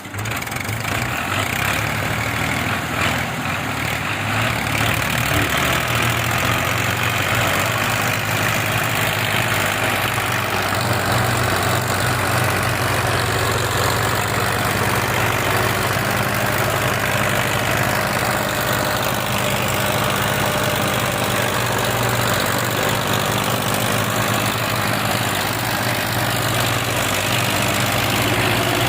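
Tractor diesel engine running steadily at a constant, low speed, with no revving.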